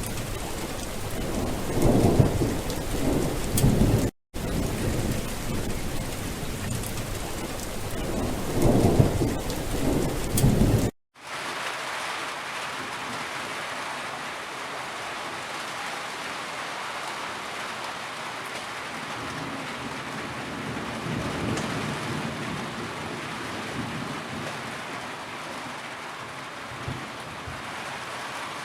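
Heavy rain with thunder rumbling in two spells, the thunder the loudest part; the sound drops out briefly about four seconds in. About eleven seconds in it cuts abruptly to a steadier, quieter rain with no thunder.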